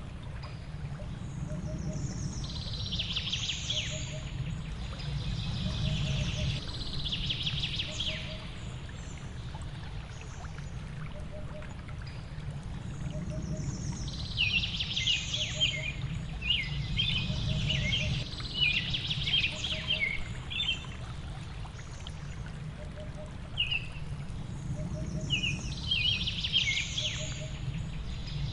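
Songbirds singing in phrases of rapid, high chirps that come and go every few seconds, over a steady low rush of water that swells and fades. A faint short note repeats about every second and a half.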